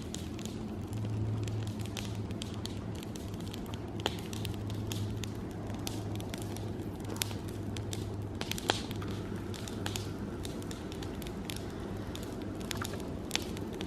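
Campfire crackling: scattered sharp pops and snaps, irregular and a few a second, over a steady low hum that is strongest in the first half.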